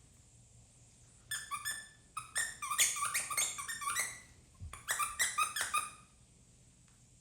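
Maltipoo puppies yipping in quick runs of short, high-pitched calls while play-fighting, in three bursts: about a second and a half in, from two to four seconds, and around five seconds.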